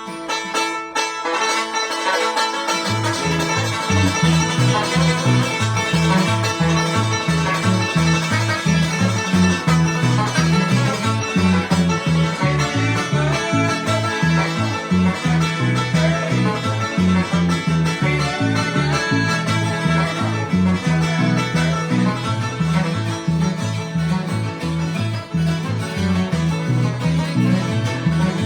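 Bluegrass band playing a hard-driving tune, banjo out front over guitar, with a bass line coming in about three seconds in.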